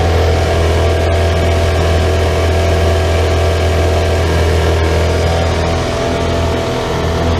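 Boat engine running steadily at an even speed, a deep constant hum that eases slightly near the end.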